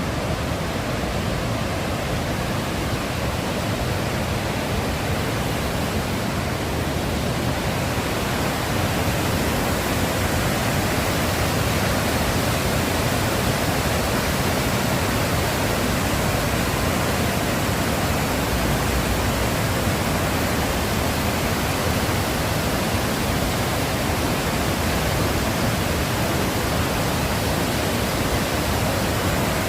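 Waterfall: a steady, loud rush of falling water with no breaks, growing a little brighter and louder about eight seconds in.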